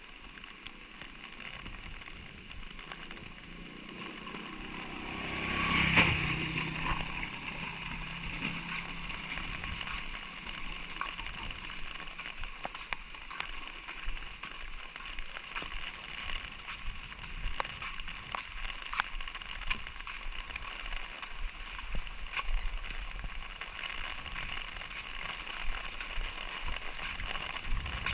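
Light rain falling steadily, with many scattered drip ticks. About six seconds in, a motor vehicle engine passes by, swelling to the loudest point of the clip and then fading away.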